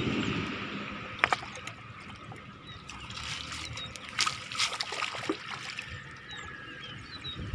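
River water trickling and splashing, with a few sharp splashes about a second in and again between three and five seconds in.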